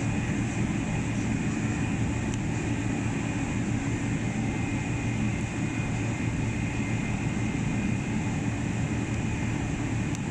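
Boeing 777-300 jet engines running steadily: a constant deep rumble with a faint high whine over it.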